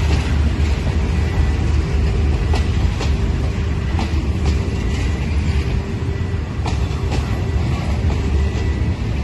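Passenger train rolling past slowly under a steady low rumble, its wheels clicking over the rail joints in close pairs.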